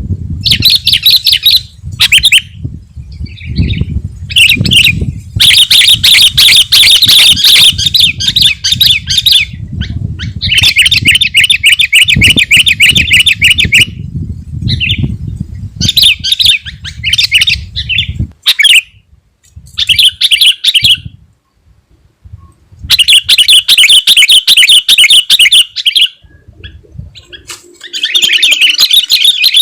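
Sooty-headed bulbul singing loudly in repeated bouts of fast, chattering song, each lasting a second to a few seconds with short pauses between. A low rumble runs underneath through the first half or so.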